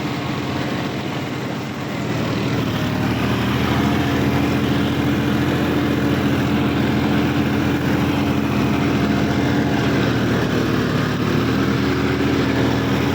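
Sonalika DI 50 RX tractor's diesel engine running steadily, getting louder about two seconds in.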